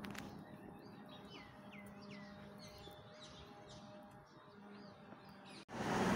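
Small birds chirping, a quick run of short calls that each sweep downward, over a faint steady hum. Just before the end the sound cuts abruptly to much louder street noise.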